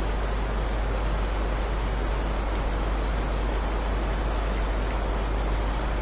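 Steady heavy rain: an even, unbroken hiss with a deep low rumble underneath, and no separate drops or thunder standing out.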